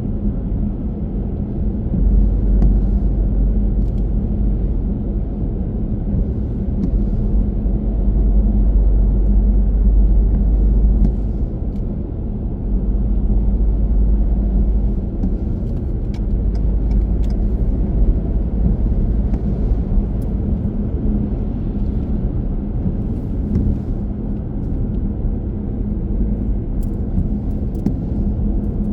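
Car driving along with a steady rumble of road and engine noise. The rumble grows deeper and louder from about two to eleven seconds in.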